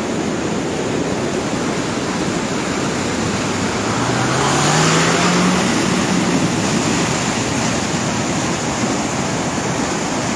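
Steady rushing of a river in flood, with a brief rising hum about halfway through.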